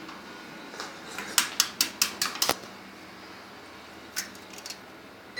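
A quick run of about six sharp clicks a little over a second in, then a few more clicks near the end.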